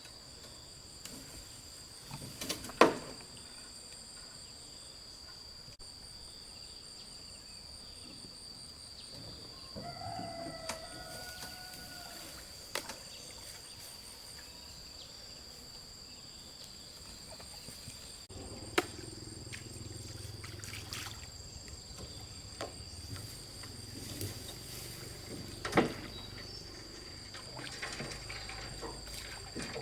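Insects chirring steadily in a high, even tone, with a few sharp knocks scattered through and a brief call about ten seconds in.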